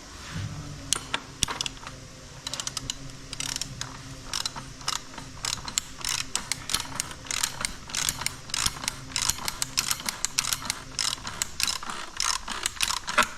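Hand ratchet wrench clicking in quick, uneven runs as fasteners are wound in and snugged down.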